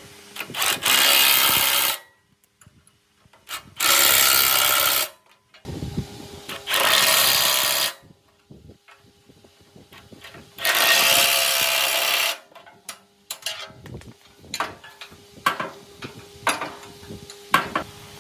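A woodworking power tool working wood in four short bursts of about a second each, with quiet gaps between them, followed by scattered knocks and clicks.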